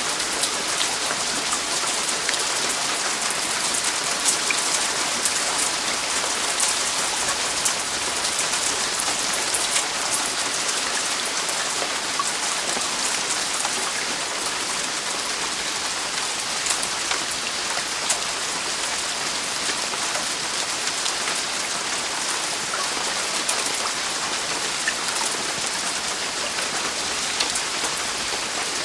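Heavy rain falling steadily on a roof, a dense even hiss with many individual drops ticking through it.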